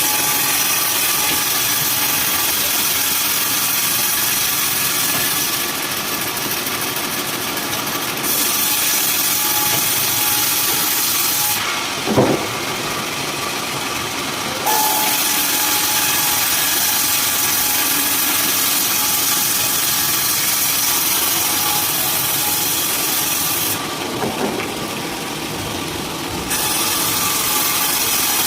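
Sawmill saw running and cutting through wood in a steady noisy drone. Its tone shifts several times and there is a single knock about twelve seconds in.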